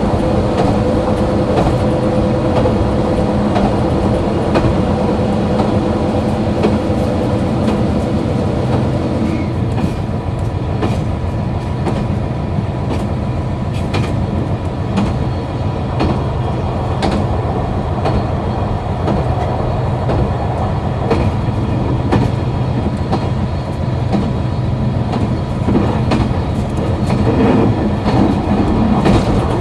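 KiHa 261 series diesel railcar running along the line: its diesel engine hums strongly for the first few seconds and then eases back, leaving a steady rumble of the train rolling, with wheels clicking over rail joints.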